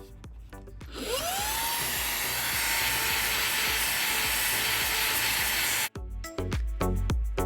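Xiaomi Mi Vacuum Cleaner mini handheld vacuum switched on about a second in. Its motor whine rises as it spins up, then it runs steadily with a loud rushing of air for about five seconds before stopping abruptly.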